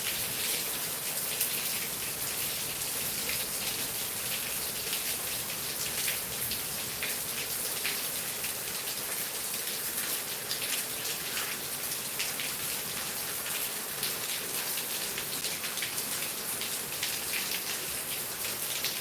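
Heavy rain falling steadily, with many individual drops striking a hard surface close by.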